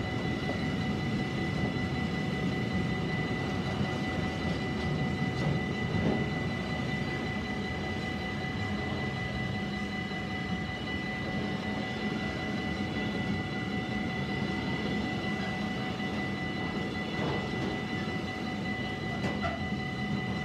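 Container wagons of a freight train rolling past on the rails, a steady rumble and clatter of wheels that eases slightly as the last wagons go by. A steady high ringing sits over it, which carries on after the train has passed: the level crossing's warning bells.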